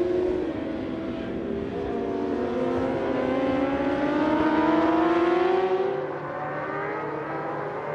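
Superbike racing motorcycle engines at high revs, the pitch climbing steadily as they accelerate, then falling away abruptly about six seconds in.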